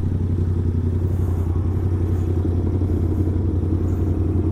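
Motorcycle engine running at a steady, low, even speed with a deep hum and no revving.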